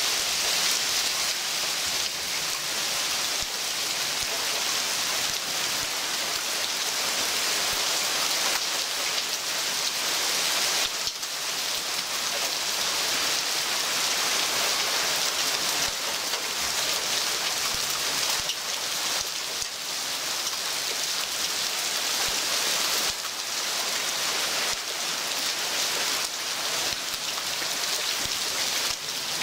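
Heavy rain pouring down in a steady, dense hiss during a thunderstorm downpour, rising and easing only slightly.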